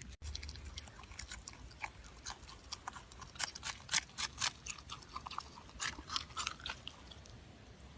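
Crunchy chewing: hard food being bitten and chewed in a quick, irregular run of crisp crunches, busiest about halfway through.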